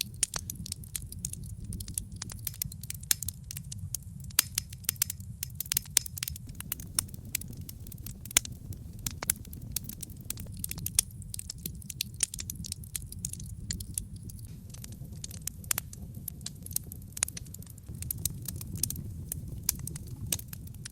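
Wood logs burning in a fireplace, crackling steadily with many sharp irregular pops over a low, even rumble of the flames.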